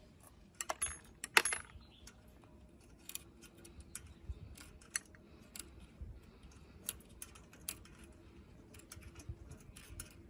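Small metal parts and tools clinking as they are handled: two sharp, ringing metal clinks about a second in, then scattered light clicks.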